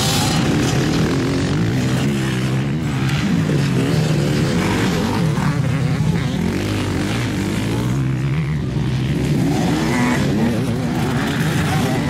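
Several motocross motorcycle engines revving hard at once, their pitches rising and falling as the bikes race.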